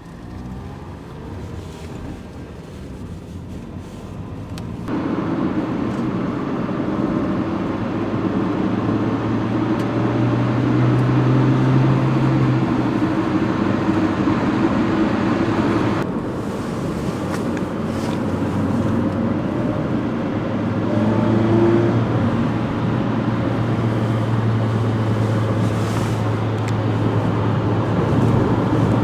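Mitsubishi Lancer SE with a manual gearbox driving on a back road: steady engine note under tyre and road noise. The sound builds over the first few seconds, jumps up about five seconds in, eases briefly about halfway through, then builds again.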